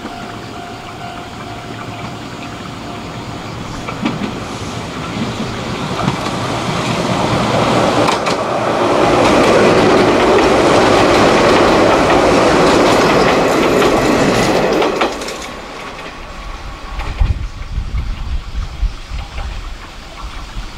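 Izuhakone Railway 3000-series electric train approaching and passing close by, its wheels clattering over the rail joints. The sound builds, stays loud for several seconds as the cars go past, then drops off sharply about three-quarters of the way through as the last car clears.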